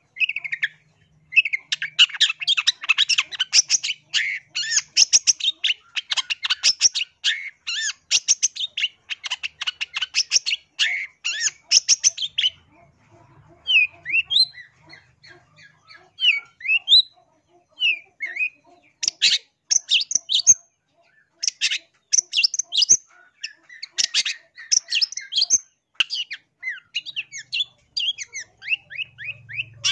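Long-tailed shrike (cendet) singing: long runs of rapid, scratchy chattering notes, broken about halfway through by a sparser stretch of a few short rising notes before the fast chatter returns.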